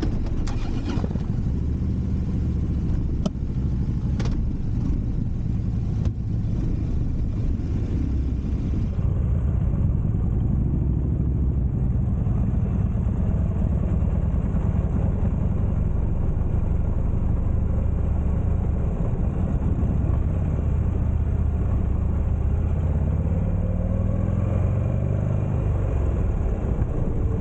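Buell Firebolt XB12R's air-cooled V-twin engine running under way, a steady low rumble with a rush of noise over it. About twenty seconds in the engine pitch climbs for a few seconds as it accelerates.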